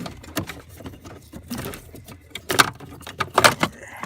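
Rattling and clicking of the truck door's wiring harness and its plastic connectors being worked through a hole in the door, with two louder knocks about two and a half and three and a half seconds in.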